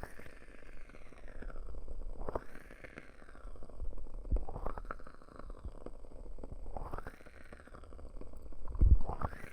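Hands cupping and uncupping over a binaural microphone's ears, making muffled rubbing whooshes with a hollow sweep that rises and falls in pitch, repeated about every two and a half seconds. A loud dull thump comes just before the end.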